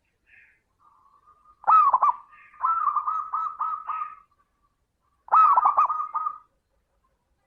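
Zebra dove (perkutut) cooing in two phrases of rapid, dipping staccato notes. The first comes about two seconds in, with a run of quick notes after it. The second, shorter phrase comes near the end.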